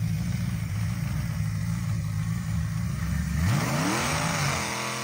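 V8-engined hot saw running at a steady low idle, then revved up about three and a half seconds in, its engine pitch climbing and holding high.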